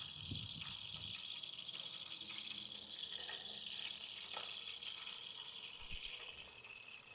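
Fish frying in hot oil in a pot, a steady sizzling hiss that fades near the end.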